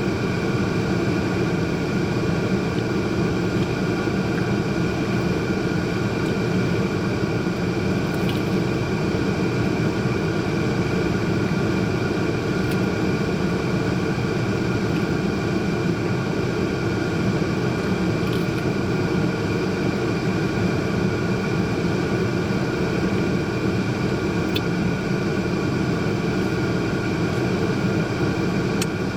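Steady drone of a car's engine and ventilation fan heard inside the cabin, with a few faint clicks.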